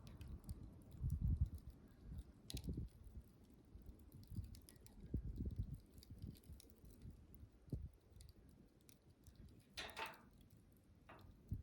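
Wood campfire burning: scattered crackles and pops of burning wood over a low, uneven rumble, with a longer, louder crackle near the end.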